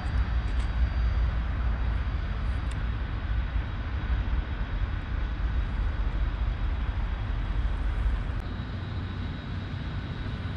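Autorack freight train rolling away, a steady low rumble of its wheels on the rails that eases slightly near the end.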